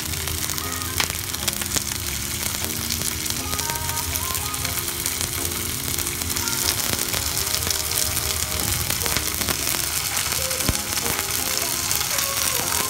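Whole prawns sizzling in hot oil in a frying pan, a steady hiss with small pops, over background music with long held notes.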